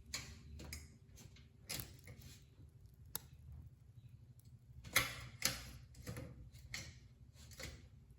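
A series of irregular clicks and short knocks, loudest two close together about five seconds in, over a faint low hum.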